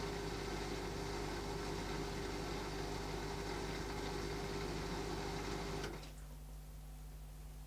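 Beko DWD5410W dishwasher running with a steady mechanical hum, which cuts off with a click about six seconds in, leaving only a faint low hum.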